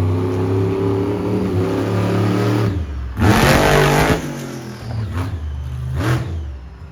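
Monster truck engine revving hard, rising and falling in pitch, with a loud, rough burst of noise about three seconds in that lasts about a second, then the engine dropping away near the end.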